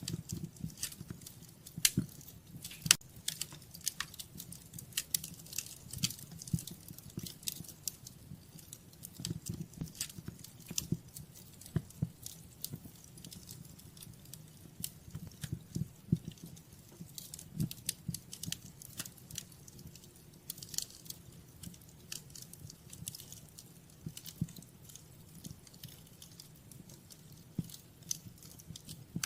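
Wood fire crackling: irregular sharp snaps and pops over a low, steady rumble of the burning logs, with the two loudest pops about two and three seconds in.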